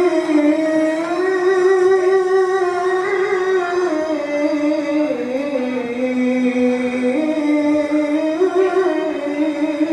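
A single voice reciting the Qur'an in melodic tilawah style, drawing out one long ornamented phrase without a break, its pitch stepping and winding down through the middle and climbing again near the end.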